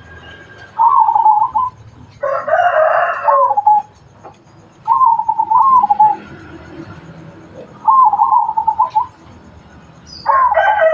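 A zebra dove (perkutut) sings its warbling cooing phrase three times, each about a second long, at even gaps. Two louder, harsher calls from another bird break in, one about two seconds in and one near the end; they sound like a rooster crowing.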